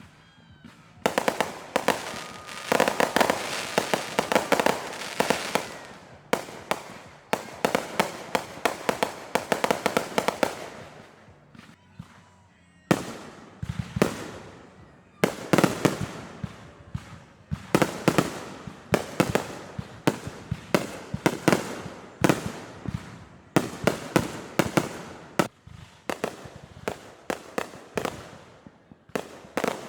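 Consumer fireworks going off in rapid volleys of sharp bangs and crackling, starting about a second in. They pause for about two seconds near the middle, then carry on.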